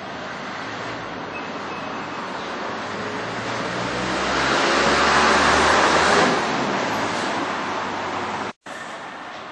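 Train noise at a railway station platform: a rushing sound swells to a loud peak about five seconds in, falls away about a second later, and cuts off abruptly near the end.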